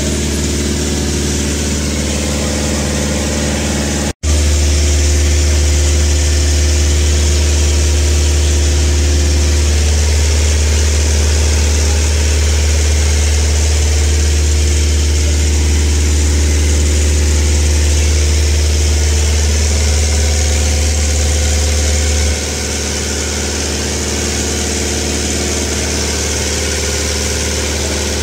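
Jeep Grand Cherokee engine idling, heard from beneath the vehicle: a steady low rumble that breaks off for an instant about four seconds in and drops a little in level about 22 seconds in.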